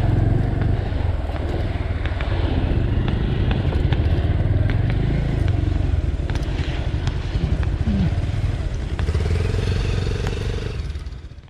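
Motorcycle engine running steadily while riding, with road and wind noise and occasional light rattles; it fades out near the end.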